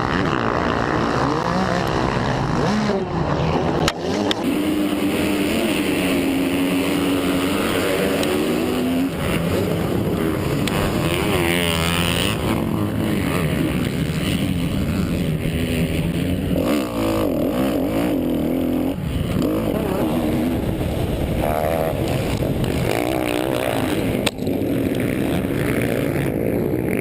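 Motocross dirt bike engines racing, their pitch rising and falling again and again as the riders work the throttle.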